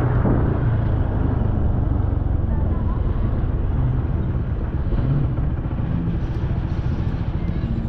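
Motorbike engine running steadily while riding along a road, with a constant low rumble.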